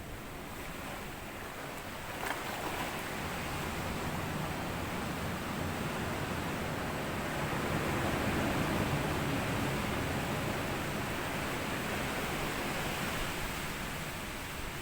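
Small sea waves washing up onto a sandy beach: the surge builds about two seconds in, peaks around the middle, then draws back.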